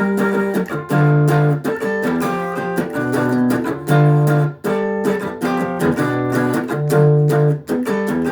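Guitar music: chords strummed in a steady rhythm, changing about once a second.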